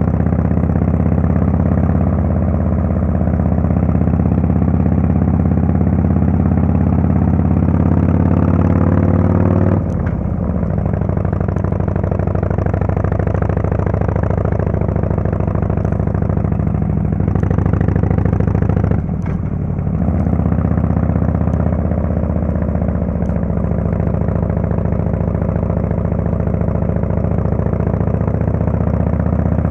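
Exhaust of a Harley-Davidson Fatboy S's Screamin' Eagle Twin Cam 110 V-twin, fitted with a Kesstech valved exhaust, running steadily while riding. The engine note drops briefly twice, about ten seconds in and again about nineteen seconds in.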